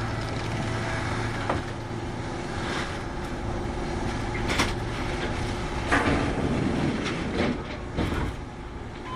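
Kintetsu 8810-series electric train heard from inside the car while running: a steady low hum and rumble, broken every second or two by sharp clacks of the wheels over rail joints.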